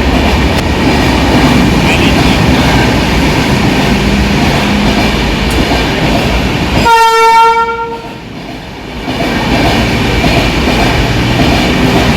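A train running past with a steady rumble and wheel clatter. About seven seconds in, a single horn blast lasts under a second. The running noise then drops for a moment and comes back.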